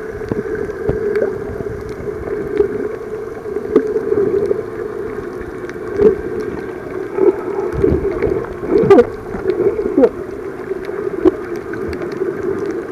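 Muffled underwater sound of a camera held below the surface while snorkelling: a steady low wash of gurgling water with scattered clicks and short wavering squeaks.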